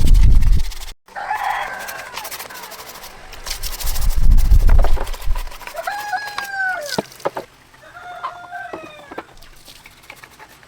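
A rooster crowing twice in the second half, each crow a long call that rises and falls, with clucking-like sounds earlier. Two loud low rumbles, one at the start and one about four seconds in, are the loudest sounds.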